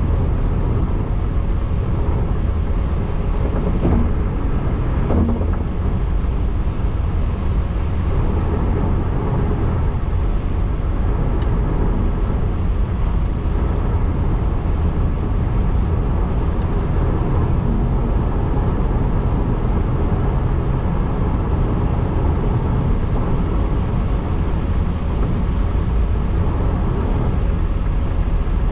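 Steady road and tyre noise from a car driving, with a couple of faint ticks about four and five seconds in.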